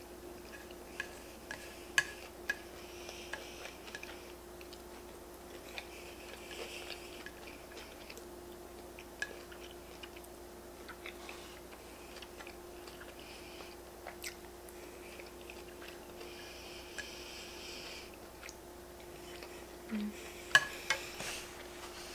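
Quiet chewing and mouth sounds of someone eating noodles and bacon bits, with scattered sharp clicks of wooden chopsticks against a frying pan. A few clicks come close together near the end as the chopsticks are laid down on the pan, over a steady faint hum.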